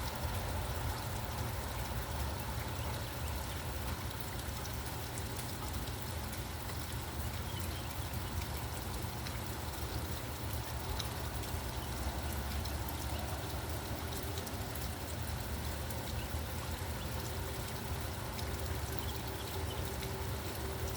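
Steady rain falling, with fine pattering drops over an even hiss. A low steady rumble lies underneath.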